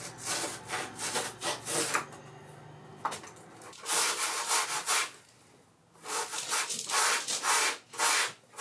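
Sandpaper being rubbed by hand over a polyurethane foam surfboard blank in quick back-and-forth strokes, in runs with short pauses. It is hand-shaping and sanding down a spray-foam repair and the ridges left by the CNC cut.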